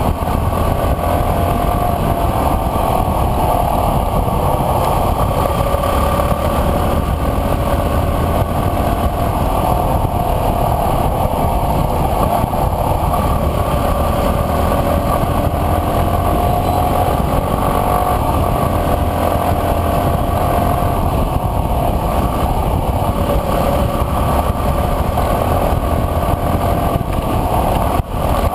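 Enduro dirt bike engine running steadily under way, its pitch wavering gently with the throttle.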